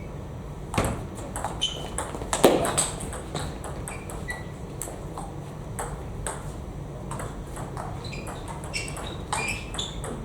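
Table tennis ball clicking off bats and the table during rallies, in quick irregular knocks, some with a short high ring. The loudest knock comes about two and a half seconds in.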